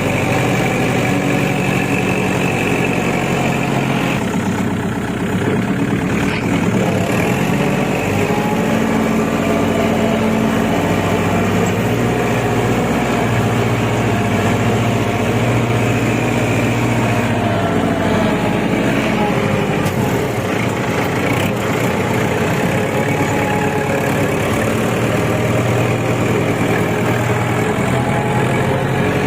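Kubota L5018 tractor's diesel engine running steadily, its pitch rising and falling a little now and then.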